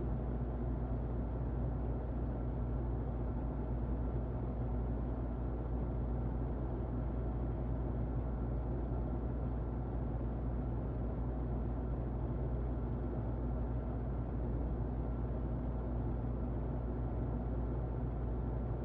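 Muffled electric fan running steadily: an even, low rushing noise with a faint steady hum.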